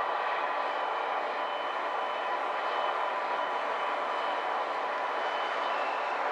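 Diesel locomotive running steadily, an even noise with a faint steady whine over it.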